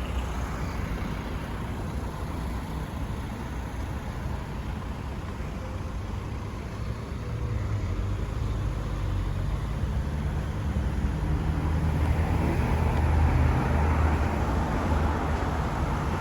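City street traffic: a steady low rumble of road noise, with a motor vehicle's engine and tyres growing louder through the second half and loudest near the end as it passes close by.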